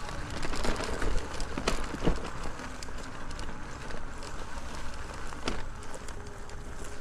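Folding e-bike being ridden along an off-road trail: steady tyre and wind noise with a low rumble, and a few sharp knocks from bumps.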